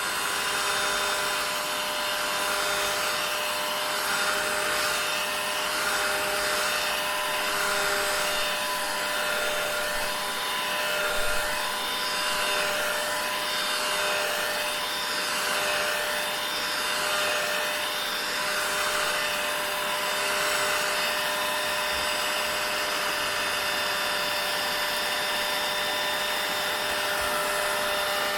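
Vacuum cleaner running continuously: a steady motor whine over the rush of air, with airflow that wavers slightly.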